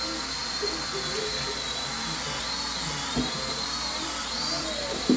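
Small toy quadcopter drone's electric motors and propellers whining steadily, the pitch wavering up and down as the throttle changes. Two short knocks come, about three seconds in and again near the end.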